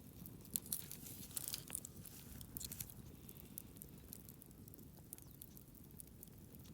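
Campfire wood crackling: irregular sharp snaps and pops, thickest in the first three seconds, over a low steady rumble.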